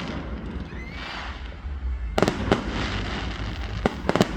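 Fireworks going off: a hazy crackle about a second in, then sharp bangs in two close pairs, one pair about two seconds in and another near the end.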